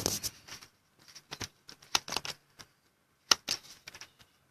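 Irregular clicking and tapping of computer keys, with the loudest click a little past three seconds in.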